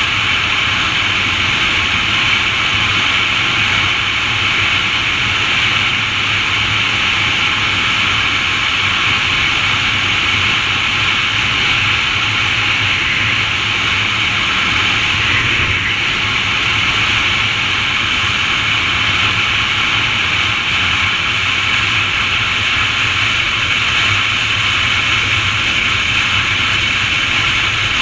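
A steady, unchanging hiss, strongest in a high band, over a low steady hum, as of a continuous nature ambience.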